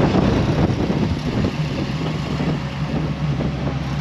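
Car engine running at low speed, a steady low rumble.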